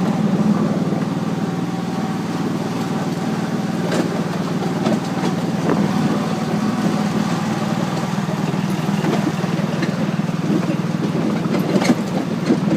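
Tractor engine running steadily, with a few sharp clicks or knocks near the end.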